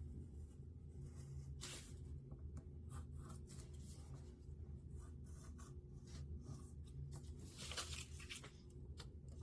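Paper being cut by hand: faint, scratchy strokes of a blade on paper, the strongest about two seconds in and again near the end, over a steady low hum.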